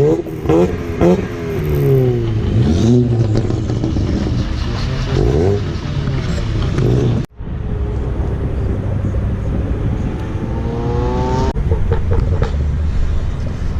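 Modified car engines revving and accelerating, their pitch rising and falling several times. The sound cuts off abruptly about seven seconds in, then a long rising rev follows before another sudden cut near the end.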